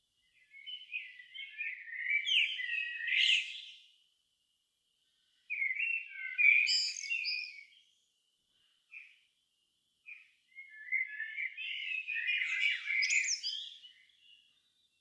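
A songbird singing three long, varied warbling phrases, each about three seconds, separated by short pauses. Two short single notes fall between the second and third phrases.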